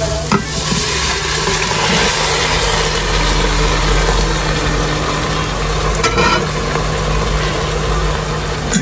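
Seared beef chunks sizzling in a little oil in the non-stick inner pot of an electric slow cooker, along with chopped garlic, onion and tomatoes. The sizzle grows as the meat is tipped in from a plate near the start. A steady low hum runs underneath.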